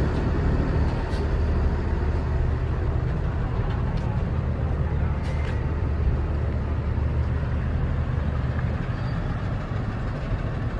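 Steady low rumble of a vehicle's engine and road noise, with a few faint clicks over it.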